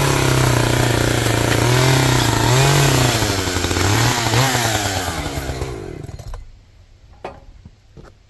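An engine running at high revs with a loud, noisy machine sound over it; its pitch dips and recovers a few times, as under changing load. It winds down and stops about six seconds in, followed by a few faint clicks.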